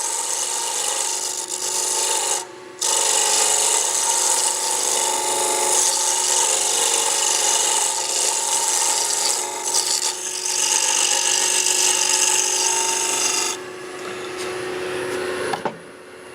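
Turning chisel cutting spinning wood on a lathe: a steady scraping hiss over the lathe's steady tone, breaking off briefly about two and a half seconds in. The cutting stops near the end, and the lathe's tone stops shortly after.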